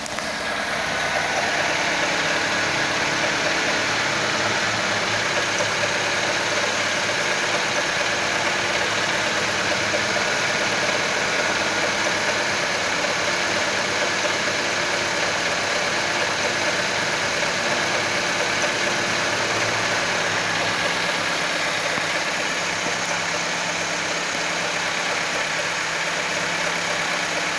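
Car engine idling steadily, its throttle body and mass airflow sensor freshly cleaned to cure a high, surging idle. It runs quietly and evenly, a little louder about a second in.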